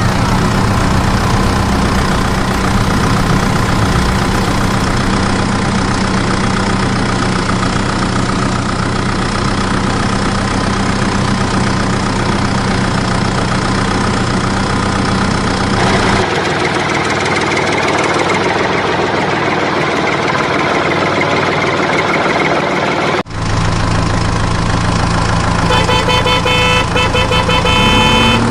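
A mini tractor's engine sound running steadily, a constant hum that changes abruptly twice, about two-thirds of the way through and again a few seconds later. A pulsing higher-pitched tone joins it near the end.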